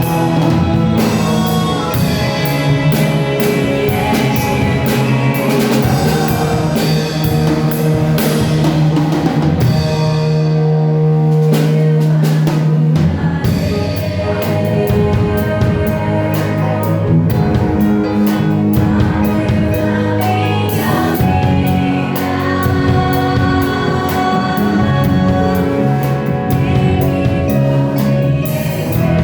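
Live praise music with singing, backed by a drum kit and band. The drums drop out for a few seconds around ten seconds in, leaving a held low chord, then come back in.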